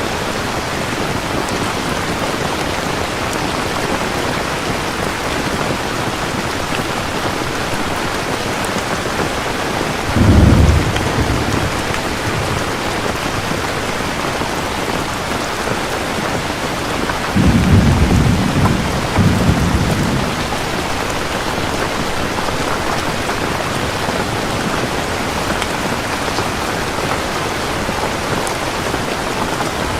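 Steady heavy rain falling, with rolls of thunder: a short low rumble about ten seconds in and a longer double rumble a little past halfway.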